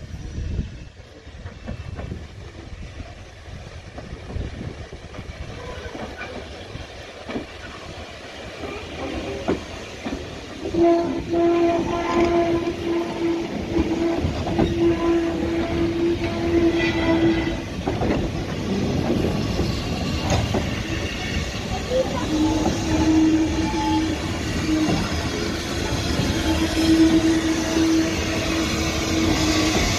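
Goods wagons and a brake van rolling slowly past behind a steam saddle-tank locomotive, the wheels rumbling and clicking over the rail joints. A long steady tone sounds over the train for several seconds a little before the middle, and again through the last third.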